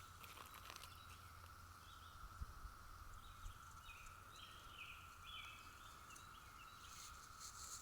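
Faint, steady drone of a 17-year periodical cicada chorus, one even tone that holds throughout. In the middle stretch it is joined by faint bird chirps.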